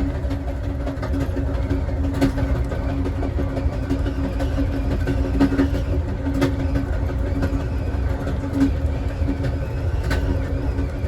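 Last car of the Southwest Chief passenger train rolling along the track: a steady low rumble with a constant hum and a few sharp clicks.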